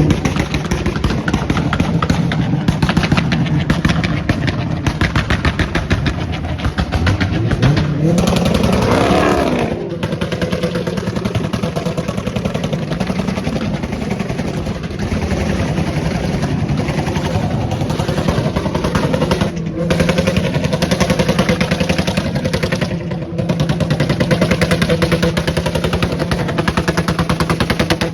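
Car engine revved hard and held at high revs with a rapid crackling rattle. The revs climb sharply about eight seconds in, then drop back.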